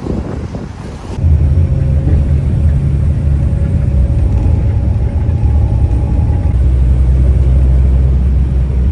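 Steady low drone and rumble of a moving bus, starting abruptly about a second in and running evenly.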